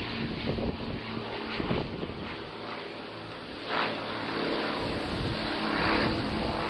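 A steady low engine hum under a haze of noise, with a few brief swells of louder noise.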